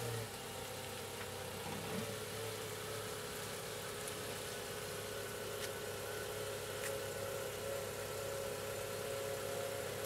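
Honda CR-V engine idling steadily while the car creeps slowly forward up to an RV's tow bar, with a few faint ticks.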